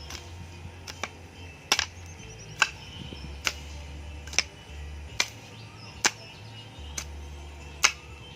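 A hoe chopping and scraping at grass in damp, rain-softened soil, a sharp strike a little under once a second, about ten strokes in steady rhythm.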